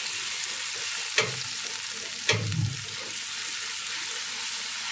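Ground spice paste sizzling in hot oil in a wok as a spatula stirs it, a steady sizzle, with two sharp knocks of the spatula against the wok about a second in and again a second later.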